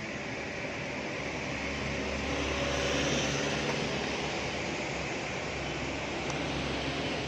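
Truck engine running with a steady low drone and road noise, growing louder up to about three seconds in and then holding steady.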